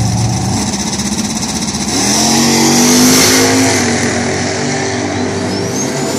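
Drag cars' engines revving at the starting line, among them a turbocharged Mitsubishi Lancer Evolution. The revs climb about two seconds in, then settle to a steady high hold. A thin high whine rises near the end.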